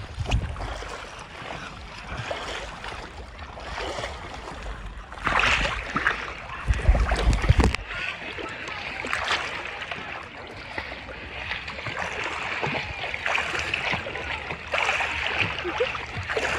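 Water sloshing and splashing around floating inflatables, an uneven wash of noise with louder surges. Wind rumbles on the microphone through the first half and drops away about halfway through.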